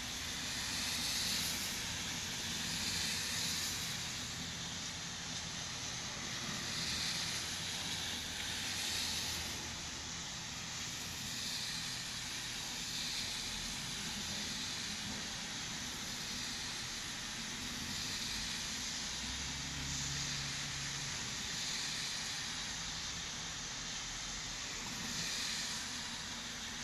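Steady rain falling, an even hiss that swells and eases gently every couple of seconds.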